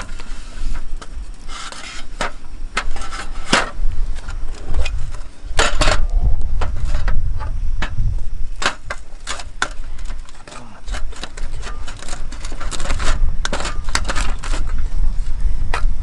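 Irregular clinks, taps and scrapes of cutlery against dishes, some in quick clusters, over a steady low rumble.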